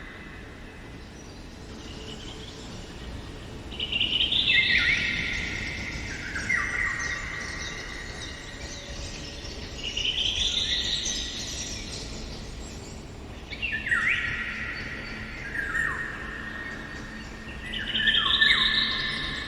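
A songbird singing: phrases a few seconds apart, each a run of notes stepping down in pitch, over a faint steady outdoor background.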